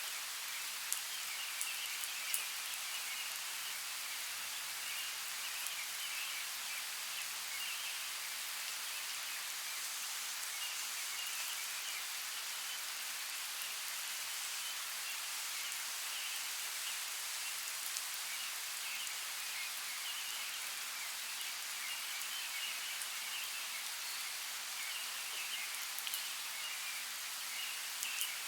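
Steady hiss of running water, with a few sharp drip-like ticks near the start and again near the end.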